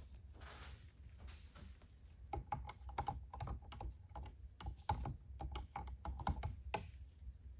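A magnet knocking against the inside of a small jar of solvent as it is swept through, checking for metal particles from the engine's oil filter: a run of quick light clicks and clinks, some with a short ring, starting about two seconds in.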